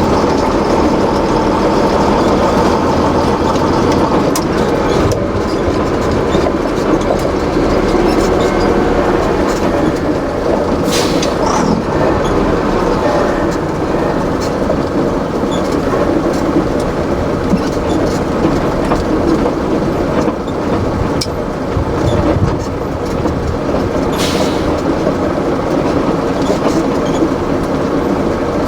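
Heavy trucks' engines running steadily as they move, with two short hisses of air about eleven and twenty-four seconds in.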